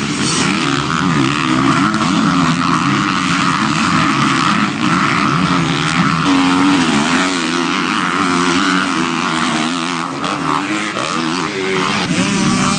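Several motocross dirt bike engines racing round the track, revving up and down through the gears with their pitches overlapping.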